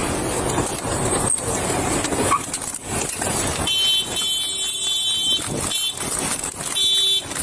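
Car noise in a street as a vehicle moves, without talk. About halfway through, a steady electronic alarm tone starts, stops after a couple of seconds and comes back briefly near the end.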